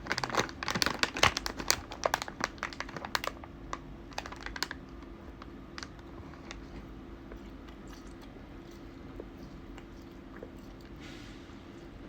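Plastic snack packet crinkling as a piece is taken out: a dense run of crackles for about three seconds that thins to scattered clicks and stops about five seconds in, leaving only a few faint ticks.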